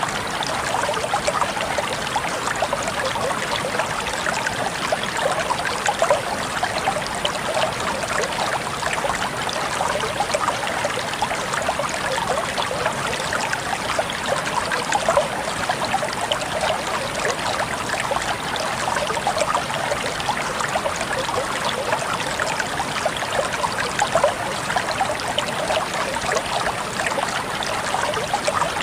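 Shallow stream of water flowing and babbling over stones, a steady trickling and splashing with many small bright droplet sounds.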